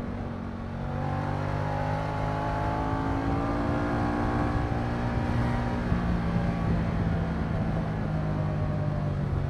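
Moto Guzzi V100 Mandello's transverse V-twin engine running under way, its pitch rising gently over the first few seconds and then easing back down.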